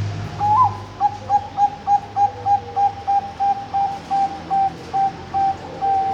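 Zebra dove of the Thai-bred Bangkok perkutut type cooing: a short rising opening note, then a long run of short, evenly spaced coos, about three a second, ending in a longer held note.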